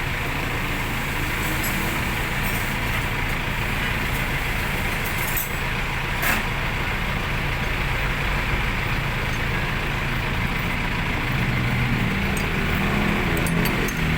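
A motor vehicle engine running steadily, with one sharp click about six seconds in and a slight rise in pitch near the end.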